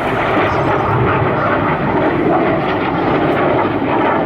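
Loud, steady jet engine noise from a formation of BAE Hawk T1 jets flying a display manoeuvre.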